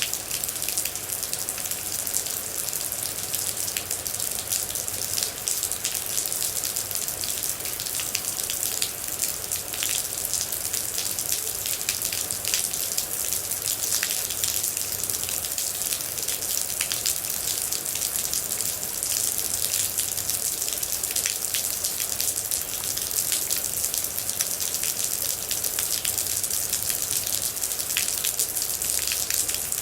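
Steady rain, with many separate droplets ticking sharply through an even hiss of falling water.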